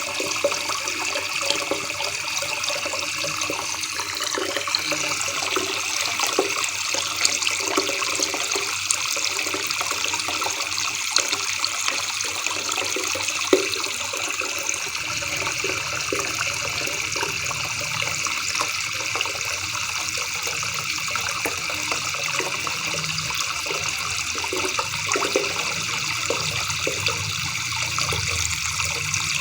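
Shallow river water babbling and trickling, a steady, continuous splashing.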